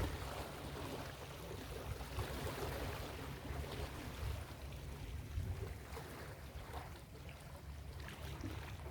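Ocean surf washing on a beach: a wave's wash dies away in the first second, then a softer, steady surf hiss over a low rumble.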